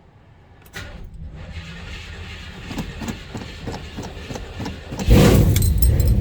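Cold start of a 1970 Chevelle's engine: a click, then the starter cranks it for about four seconds before it fires about five seconds in and catches, running loudly.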